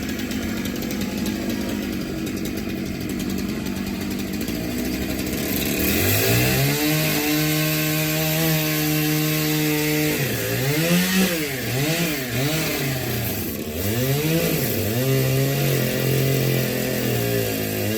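Two-stroke chainsaw running low for about five seconds, then revved up to a high steady whine. Partway through, its pitch dips and recovers several times, as it does when the chain bogs down cutting wood.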